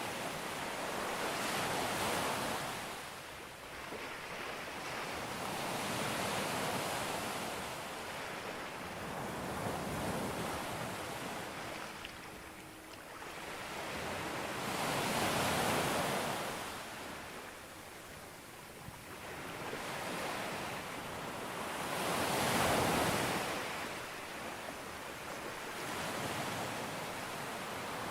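Sea waves breaking on a beach: the hiss of surf rises and falls in slow surges every few seconds, with the biggest breakers about halfway through and near the end.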